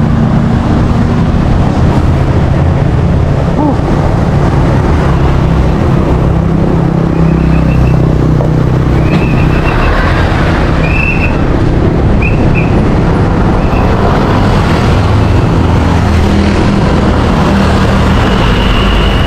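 Steady loud low rumble of road traffic and riding noise picked up by an action camera on a moving bicycle, with a few short high chirps near the middle.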